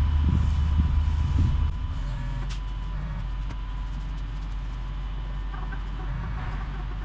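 A vehicle engine running with a low rumble that drops in level about a second and a half in, then idles steadily.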